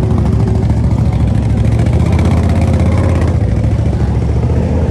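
Off-road vehicle engine running with a steady low rumble and rapid flutter.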